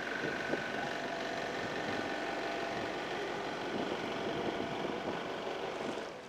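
An engine running steadily: an even mechanical drone with a thin high whine that fades away in the first second.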